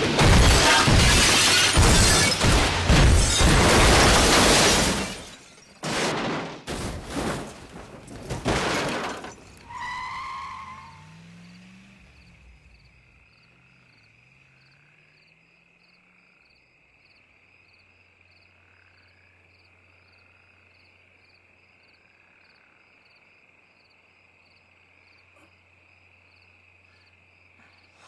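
Car crash: about five seconds of loud crunching metal and shattering glass, then several more heavy impacts as the car comes to rest. After about ten seconds it falls almost silent, leaving only a faint steady high-pitched tone over a low hum.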